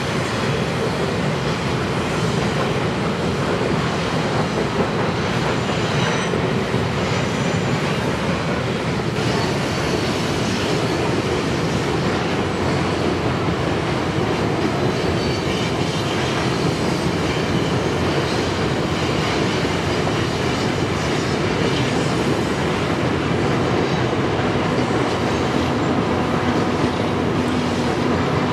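Loaded coal hopper cars rolling across a steel bridge, a steady rumble and rattle of wheels on rail, with a faint high wheel squeal a few seconds in. Near the end a low steady hum joins as a mid-train diesel locomotive draws near.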